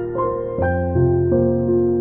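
Gentle background music: soft piano or electric-piano notes over a sustained low bass.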